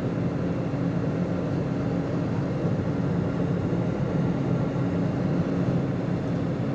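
Steady cabin drone of an airliner in cruise, heard from a seat above the engine: an even rushing noise with a constant low hum of several tones, unchanging throughout.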